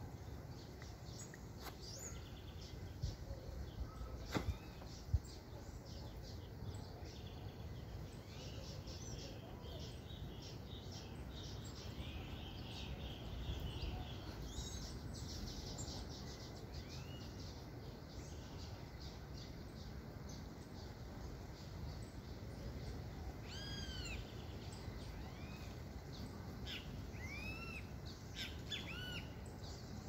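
Wild birds chirping and calling, many short chirps with a run of repeated arching calls near the end, over a steady low background noise. A few sharp clicks sound in the first few seconds.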